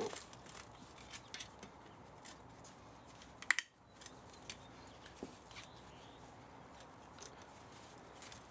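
Scattered sharp clicks and snaps of hand tools working on metal while an old spa motor is taken apart for scrap, with one louder snap about three and a half seconds in.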